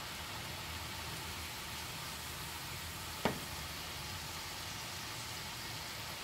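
Cubed potatoes frying in a skillet of hot oil, a steady sizzle. A single sharp knock comes about three seconds in.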